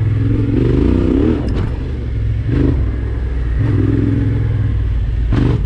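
Yamaha Ténéré 700 adventure motorcycle engine revving up and easing off twice while riding a trail, with a few short knocks and rattles from the bike over bumps.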